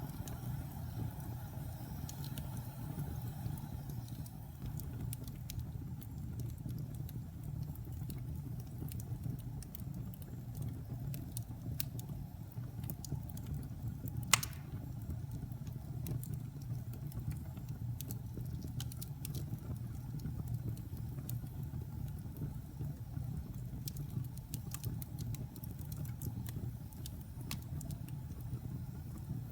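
Wood fire burning in a fireplace: a steady low rumble of the flames with scattered small crackles, and one sharp, loud pop about halfway through.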